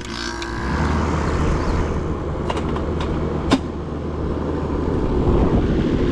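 Air-conditioner condenser unit running with its fan blowing steadily, the fan turning the right way after being rewired to the contactor. The running noise steps up about a second in, with a few light clicks in the middle.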